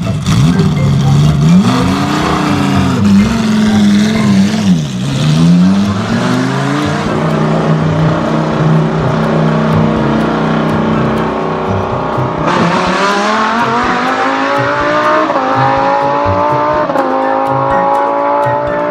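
Car engine revving up and down, then accelerating hard through several gear changes, the pitch climbing and dropping back at each shift.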